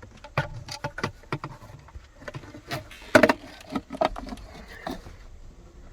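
Handling noise: irregular knocks, clicks and rustling as a diesel heater's ducting tube is worked into place by hand, with the loudest knock about three seconds in.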